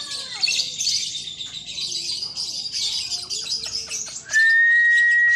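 Lovebird chirping in a fast, continuous high chatter. About four seconds in, a loud steady whistle comes in and holds for over a second.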